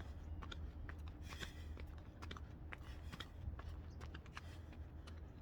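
Faint, irregular clicks and light knocks from a person doing burpees outdoors, over a low steady rumble.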